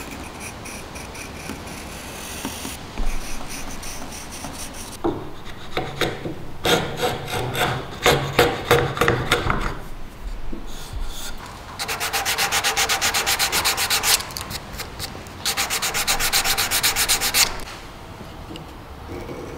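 Sandpaper on wood: a wooden part being sanded, first in irregular rubbing strokes, then in two bursts of fast, even rasping in the second half.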